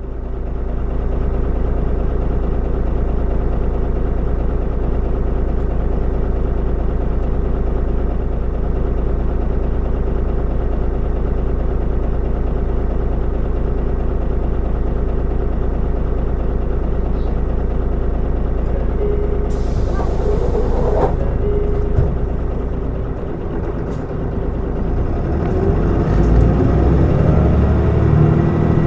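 Mitsubishi Fuso Aerostar city bus's six-cylinder diesel engine idling steadily with a deep rumble, a short hiss of compressed air about two-thirds of the way through, then the engine note rising near the end as the bus pulls away.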